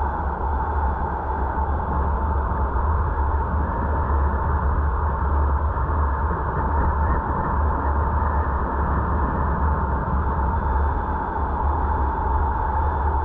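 Steady road and engine noise of a moving car heard from inside the cabin, a constant low rumble with a steady mid-pitched tone running through it.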